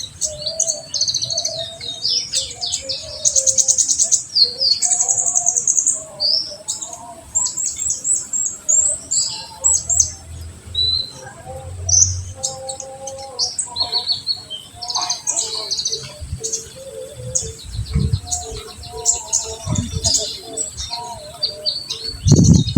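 Kolibri ninja sunbird singing its full rapid-fire song, used as a lure to spur young birds: a dense run of high, sharp chirps and quick trills, with a fast buzzy rattle a few seconds in. A few low thuds come near the end.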